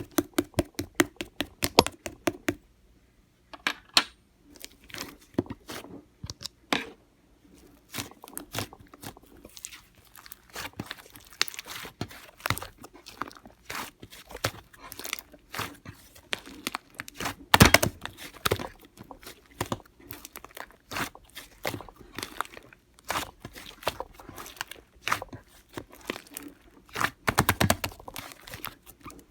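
Slime being pressed and folded by hand, trapped air bubbles popping in quick runs of sharp clicks and crackles, louder about two-thirds of the way in and again near the end.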